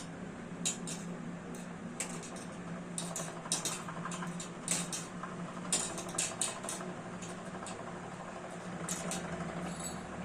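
Ventisol VP-60 chrome wall fan running with a steady low hum and airflow rush. Irregular sharp clicks and taps sound over it, thickest in the middle of the stretch.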